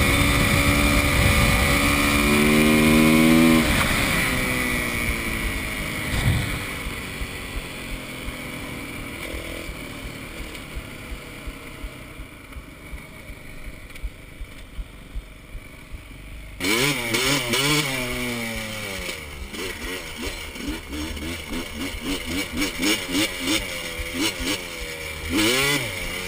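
Four-stroke dirt bike engine accelerating up through the gears, then fading as the bike rides off. About two-thirds of the way in, the sound cuts abruptly to a dirt bike close by, its engine blipped up and down in quick throttle bursts.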